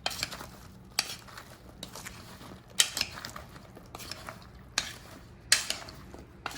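A spoon clinks and scrapes against a bowl as halved Brussels sprouts are tossed to mix in the seasoning. There is a sharp clink every second or so, and the loudest come about three and five and a half seconds in.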